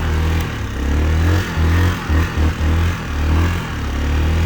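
2004 Yamaha Kodiak 450 ATV's single-cylinder engine running while it is ridden, its low note dipping briefly now and then.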